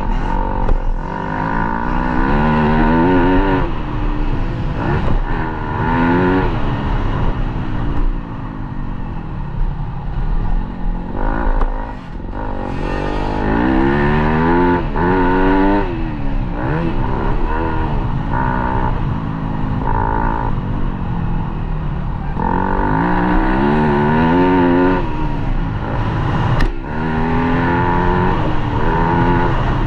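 Motocross dirt bike engine being ridden hard, its pitch rising and falling over and over as the throttle is opened and closed and the rider shifts through the gears.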